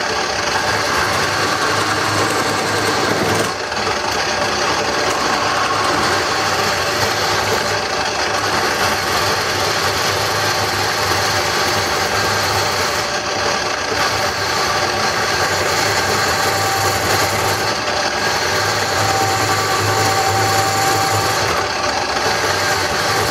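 Craftsman wood lathe running steadily while a hand-held turning tool cuts into the spinning wood to hollow a bowl, a continuous scraping noise over the motor's hum, with a brief let-up about three and a half seconds in.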